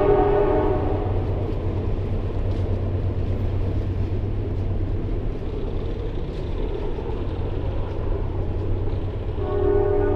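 A passing train's horn sounds a chord of steady tones that cuts off about a second in and sounds again near the end, over the steady low rumble of the train running on the tracks.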